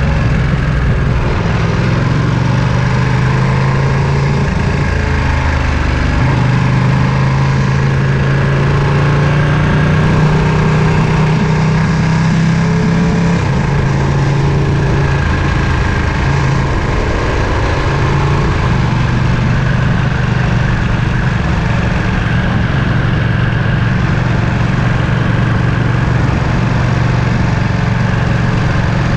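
Ducati Panigale V2's 955 cc Superquadro L-twin engine running at a fairly even speed, its low note shifting slightly in pitch a few times.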